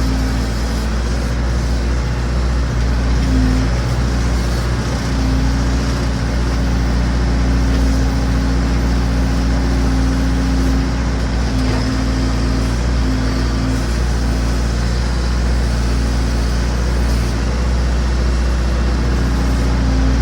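Massey Ferguson BX 50 backhoe's engine running steadily under work.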